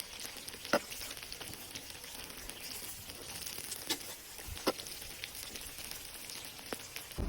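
Food frying in hot oil in a kazan: a steady sizzle with a few sharp pops and crackles scattered through it.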